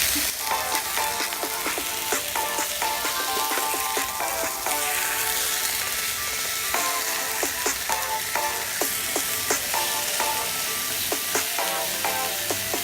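Chicken breast frying in hot olive oil in a non-stick pan: a steady sizzle with frequent small crackles and pops. Light background music plays underneath.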